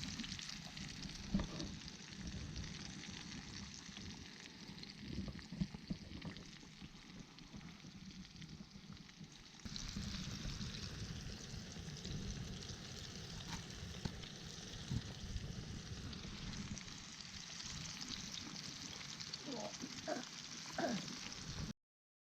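Karaage (chicken pieces) deep-frying in hot oil: a steady sizzle with occasional sharp pops. It gets a little louder about ten seconds in and cuts off abruptly near the end.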